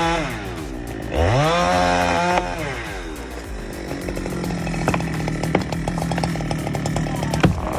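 Chainsaw engine easing off, then revving back up about a second in and running steady under load while cutting a tree. Wood crackles and snaps more and more over the cut from about four seconds in.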